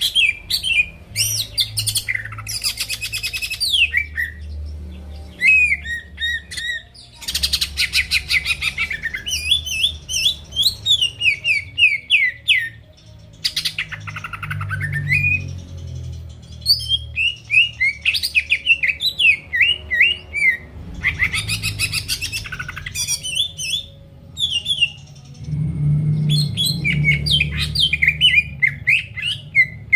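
Cucak ijo (green leafbird) singing a loud, varied song: quick chirps, fast trills and rising and falling whistled notes in rapid runs with brief pauses, over a low hum.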